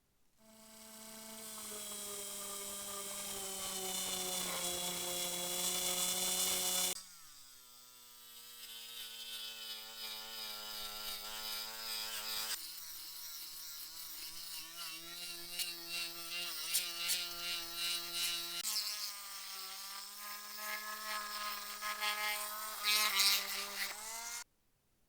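A small electric rotary tool running at steady speed, a whine with scraping as it works against metal. Its pitch drops and shifts several times as the load or speed changes, and it cuts off suddenly near the end.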